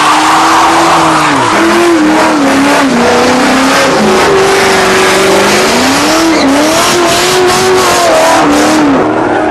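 A car being driven hard, loud and close: a steady rush of noise with a strong wavering pitch that rises and falls again and again, and a quick run of sharp pops near the end.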